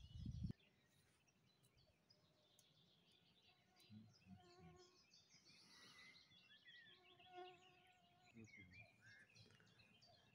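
Near silence with faint birdsong: many small scattered chirps. A faint drawn-out pitched call sounds twice, about four and seven seconds in, and a brief low noise comes at the very start.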